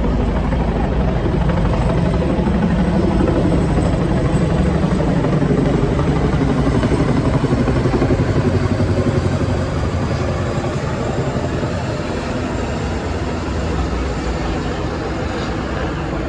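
Helicopter flying past overhead, its rotor and engine noise building to a peak about halfway through and then fading.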